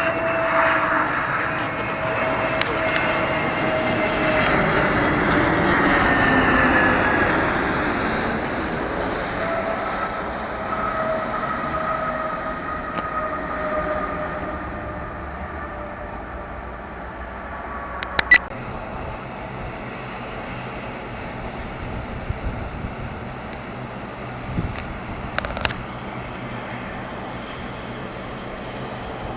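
Airbus A320neo jet airliner passing close by on landing: engine whine and jet noise, with the whine sliding down in pitch as it goes past, loudest a few seconds in and then easing to a steady lower rumble. A few sharp clicks midway and later.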